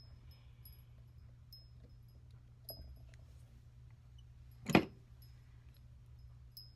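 Metal wire mold being handled: a few light clicks and one loud, sharp knock about five seconds in, over a steady low hum.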